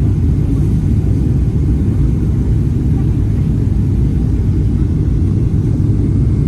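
Cabin noise of a Boeing 777-300ER airliner: a steady, loud low rumble with no change in pitch or level.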